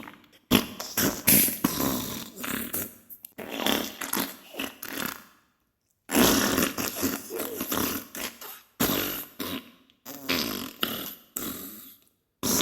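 Diarrhea sound effect: a run of sputtering fart noises coming in several bursts, with short breaks between them, the longest about five and a half seconds in.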